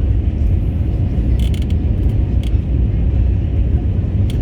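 Airbus A320 heard from inside the passenger cabin: a steady low rumble of the jet engines and airflow, with a few short rattling clicks from the cabin fittings.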